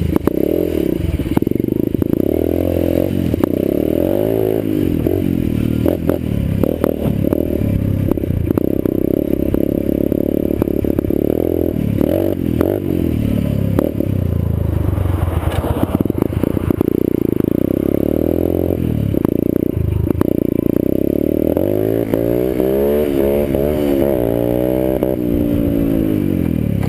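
Orion 125cc dirt bike engine revving up and falling back again and again while riding, with frequent knocks and rattles.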